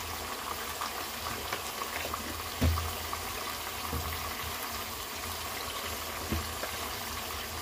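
Chicken pieces cooking in hot oil and their own juices in a pot, a steady sizzling and bubbling. Three dull knocks come through it, the loudest a little over a third of the way in, the others around the middle and near the end.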